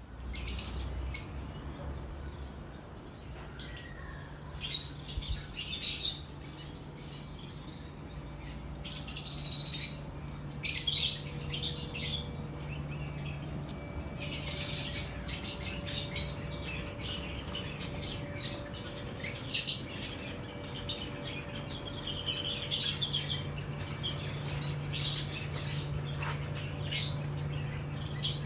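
A flock of lovebirds chattering: clusters of sharp, high chirps and squawks every second or two, over a steady low hum.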